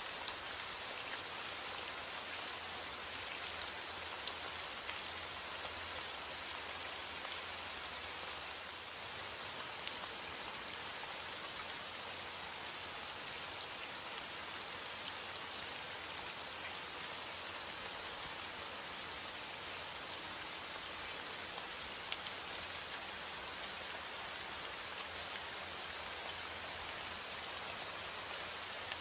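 Heavy rain falling steadily, a dense even hiss dotted with the small ticks of individual drops striking a surface.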